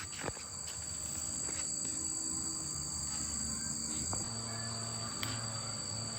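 Steady high-pitched insect-like trilling over soft low background music notes, with a few light clicks.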